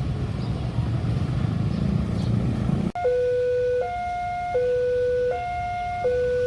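A low, steady rumble that cuts off abruptly about three seconds in, giving way to a railway level-crossing warning alarm: an electronic two-tone signal switching between a lower and a higher pitch about every three quarters of a second, warning that a train is approaching.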